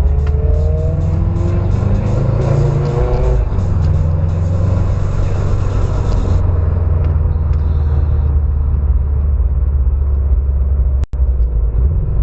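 Car engines rumbling, with an engine revving up in the first few seconds, alongside music. The sound cuts out for a moment near the end.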